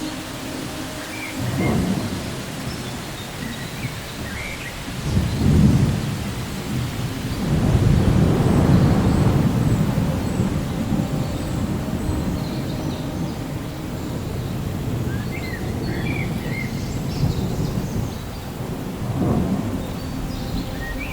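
Thunderstorm: steady rain with rolls of thunder. There are short rumbles about 2 and 5 seconds in, a longer roll from about 7 to 12 seconds, and another rumble near the end.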